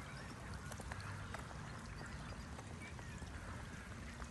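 Wet outdoor ambience in light rain: a steady hiss with many small, scattered ticks, over a low rumble.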